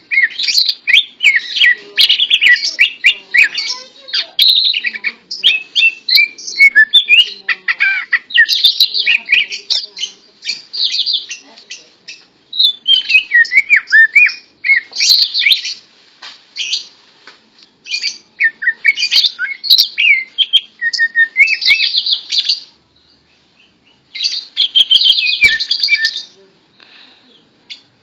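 Green leafbird (cucak ijo) singing close up: long runs of rapid, varied chirps and warbled whistles, broken by a few short pauses.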